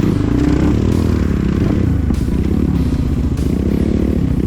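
Mini bike engine being ridden off-road, its revs rising and falling, with some clatter.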